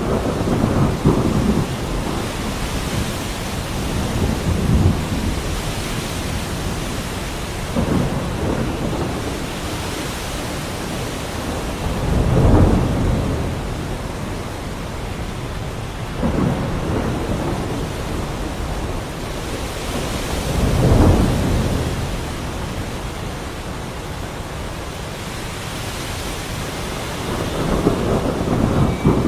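Steady heavy rain with thunder rumbling again and again, every few seconds, the loudest rolls about twelve and twenty-one seconds in.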